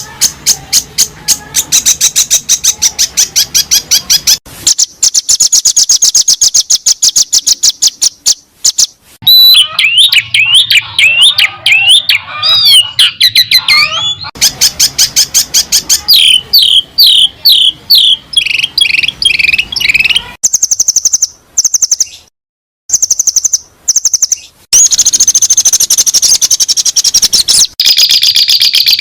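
Recorded songbird song played as tutor material for caged songbirds: long runs of fast, repeated high chips, a varied whistled phrase of sweeping notes partway through, then high trills that stop and start abruptly, with a brief silence near the middle.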